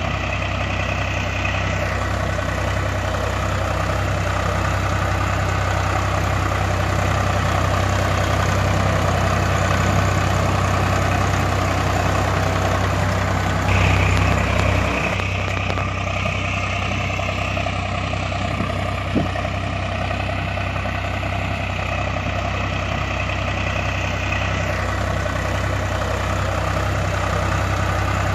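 Steady idling engine sound of a heavy tractor, with an even low throb that swells briefly about halfway through.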